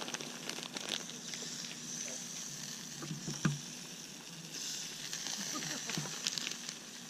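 Food sizzling over a campfire, a steady hiss with small crackles and a louder pop about three and a half seconds in.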